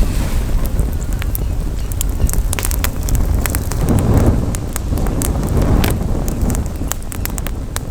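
Campfire crackling, with many sharp irregular pops and snaps, over a low rumble of wind on the microphone that swells a few seconds in.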